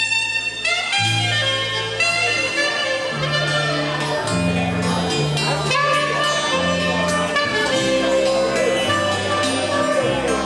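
A small band playing an instrumental passage: a melodic lead over a bass line that moves from note to note.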